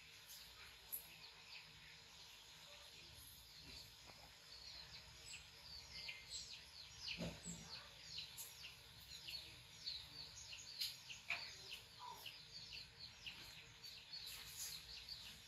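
Faint chirping of small birds: many short, quick falling chirps, more frequent in the second half, over quiet room tone.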